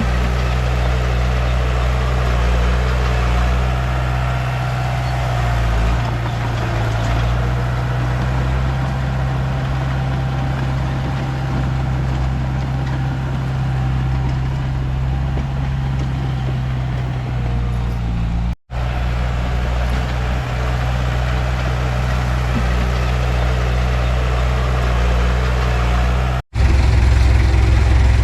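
Komatsu D31P bulldozer's diesel engine running steadily while working. The sound cuts out abruptly twice, for an instant each time, and is a little louder after the second gap.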